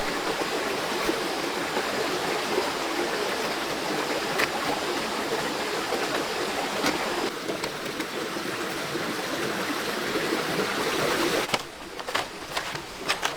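Steady rushing water noise. About eleven and a half seconds in it drops abruptly to a quieter hiss with scattered sharp ticks.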